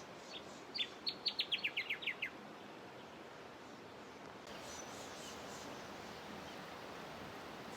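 A bird calling: a quick series of about ten short notes, each sweeping downward, lasting about a second and a half. It sounds over a steady background hiss.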